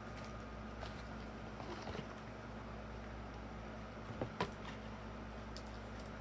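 A few light clicks and taps of small plastic toy parts being handled, two sharper clicks close together about four seconds in, over a steady low electrical hum.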